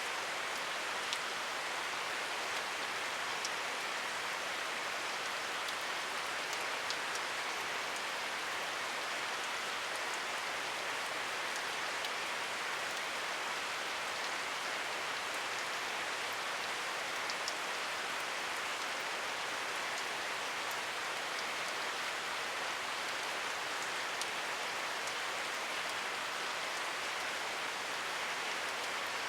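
Steady rain falling, an even hiss of rainfall with scattered sharper drops striking a surface.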